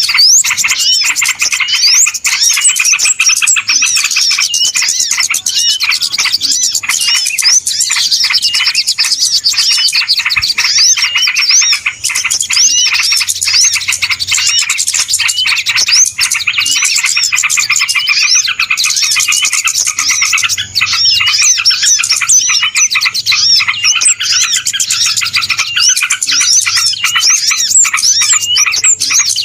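Dense chorus of many small birds chirping and twittering together without pause. It is a bird-lure (pikat) recording of a busy flock, used to call small birds in.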